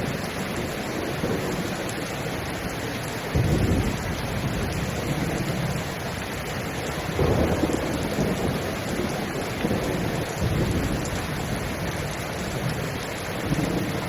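Steady rain hissing, with low rumbles of thunder swelling up about four times.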